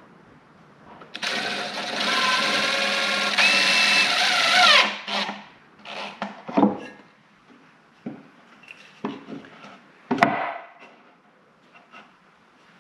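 Power drill running steadily for about three and a half seconds and then winding down, followed by a few knocks and clunks, the loudest one about ten seconds in.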